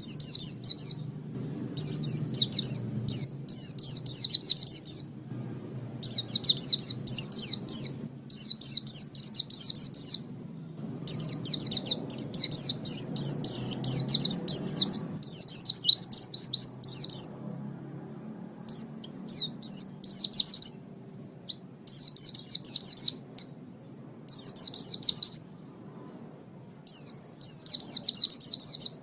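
White-eye (pleci) song: rapid, high twittering phrases of fast chirps, in bursts of one to three seconds with short pauses between them.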